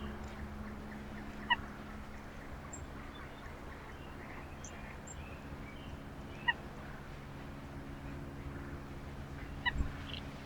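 Wild birds at a backyard feeder giving short, sharp chirps, three clear ones spaced a few seconds apart plus a few faint high notes, over a steady low hum.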